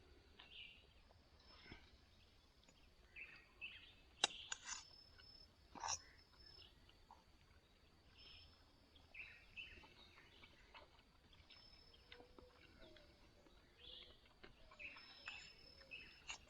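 Faint outdoor ambience at a riverside camp: scattered short bird chirps over a thin steady high hiss, with a few sharp clicks about four and six seconds in.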